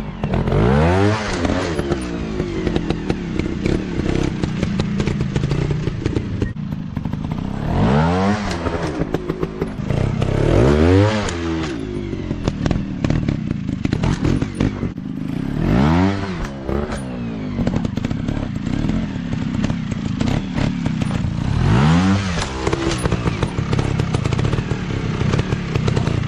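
Off-road dirt bike engine running hard, its pitch rising and falling about five times as the throttle is opened and eased off, with some clatter.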